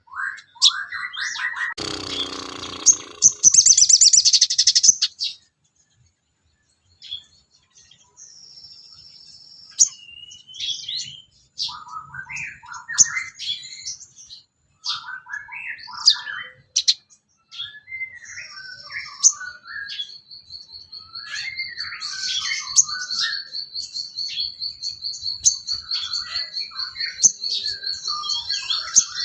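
Recorded songbird calls used as bird-song training material: a run of short, varied chirps and whistled notes, with a loud harsh burst a few seconds in, a brief pause, and a fast, steady high trill that carries on through the second half.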